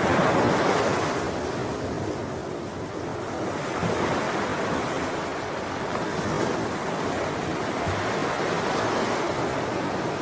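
Sea waves washing on the shore: a continuous rush of surf that swells and eases as each wave comes in, loudest in the first second or so.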